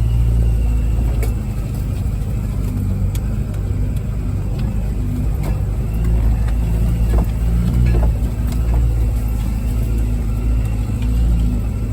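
A 4x4's engine running at low speed while driving along a rough stony track, with scattered sharp ticks and knocks throughout.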